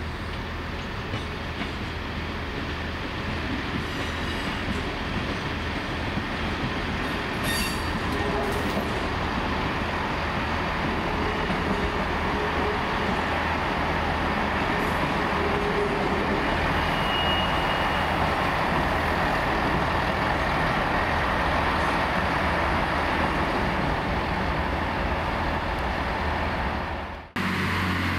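Northern class 158 diesel multiple unit arriving: a steady rumble of engines and wheels that builds a little over the first dozen seconds, with faint brief squeals partway through. The sound cuts off abruptly about a second before the end.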